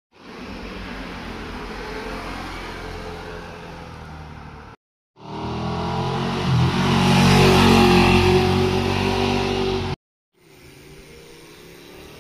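Motorcycle engines passing in three short cuts, each starting and stopping abruptly. The first is a fading engine note. A louder pass-by about five seconds in swells to its loudest around eight seconds with shifting engine pitch. A quieter engine follows the last cut.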